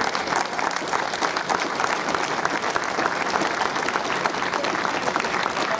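Audience applauding steadily: many hands clapping in a hall for the runners-up as they are announced.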